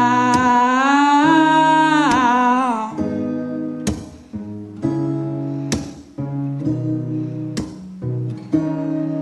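Live acoustic song: a singer holds the last word 'now' for about three seconds with a slight waver, then an acoustic guitar carries on alone, strumming chords with a stroke roughly every second.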